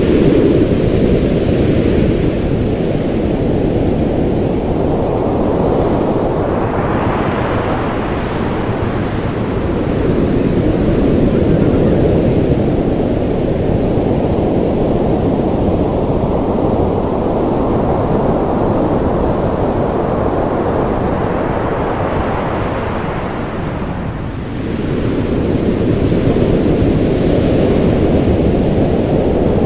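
Rushing water: a loud, continuous low rumble that swells and eases slowly, with a fuller, brighter surge about seven seconds in and a brief drop about 24 seconds in before it picks up again.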